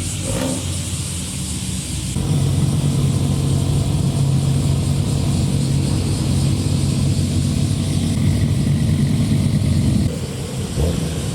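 Modified car's exhaust running at a steady low engine speed as the car drives slowly in. It gets louder about two seconds in and drops back near the end.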